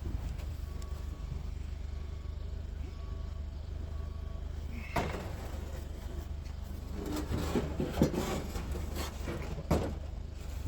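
A vehicle engine idling with a steady low hum while scrap is loaded, with a few faint short beeps in the first half. Knocks and clatter of items being handled come about halfway through and again near the end.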